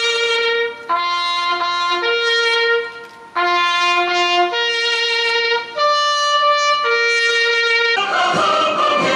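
Brass music led by a trumpet-like melody of held notes, changing about once a second with short breaks between phrases. A fuller, denser ensemble sound comes in near the end.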